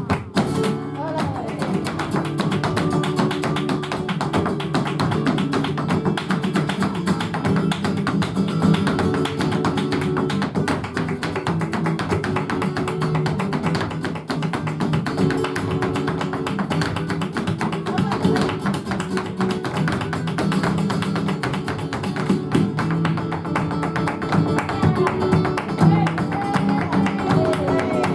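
Flamenco guitar playing a guajira, with a dancer's zapateado footwork tapping rapidly over it.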